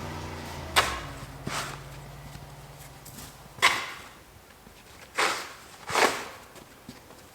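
A series of five sharp knocks at uneven intervals, over a low hum that fades away early on.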